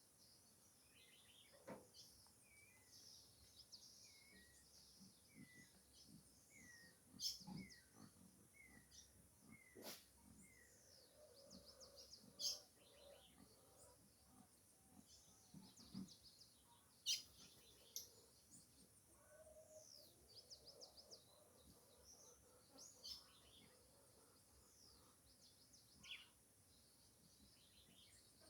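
Faint birdsong: a run of short falling notes repeated about once a second, among many high chirps. A few sharp clicks come through now and then.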